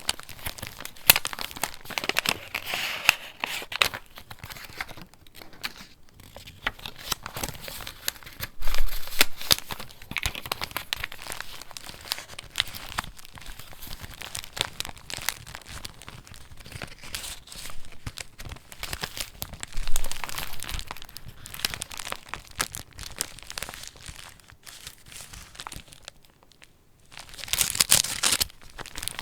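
Paper pages of a handmade junk journal being handled and turned, crinkling and rustling in irregular bursts. There are a few louder page movements and a short lull near the end.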